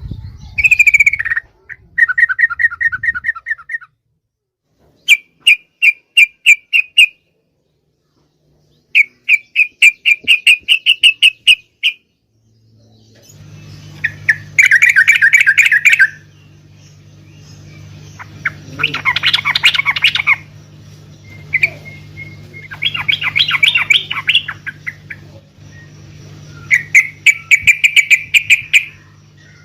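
Yellow-vented bulbul (trucukan) song: about seven short phrases of rapid, repeated chattering notes, separated by pauses of a second or two. A steady low hum comes in about a third of the way through and runs under the later phrases.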